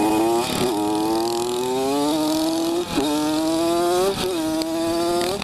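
Two-stroke Honda CR80 dirt bike engine, heard from the rider's seat, accelerating hard up through the gears. Its pitch climbs, then drops at each of about four shifts.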